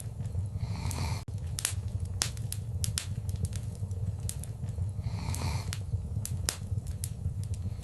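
Wood fire in a fireplace crackling, with many sharp pops over a steady low rumble of flames. Two brief hissing puffs come through, one about a second in and another past halfway.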